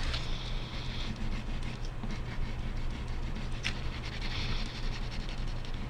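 Wax crayon rubbing back and forth on paper while colouring, in scratchy spells, over a steady low hum.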